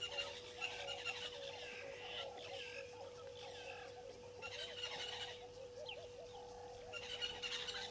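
Birds calling in a natural ambience, many short rising and falling chirps overlapping, over a steady thin hum.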